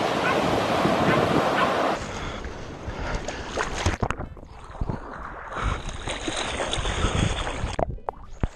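Sea surf breaking with wind buffeting the microphone. About two seconds in, the sound drops abruptly to a quieter, duller wash of water and wind.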